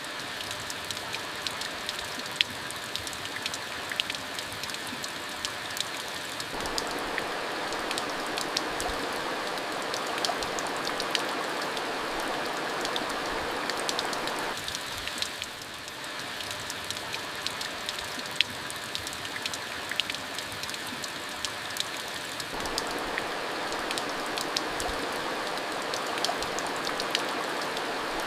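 Steady rain, with many separate drops striking a surface throughout. A mid-pitched hiss in the rain grows louder about six seconds in, falls away around fifteen seconds, and rises again at about twenty-two seconds.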